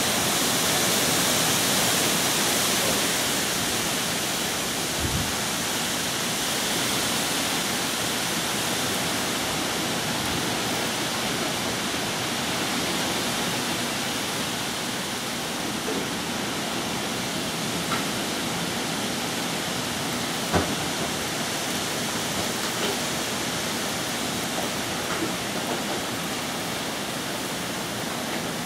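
Heavy hurricane rain pouring steadily, with a few faint short knocks, the clearest about two-thirds of the way through.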